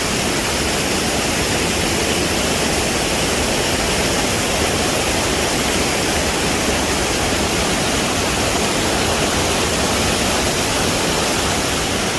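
Rushing river water pouring over rocks and falls: a steady, loud, unbroken rush of water.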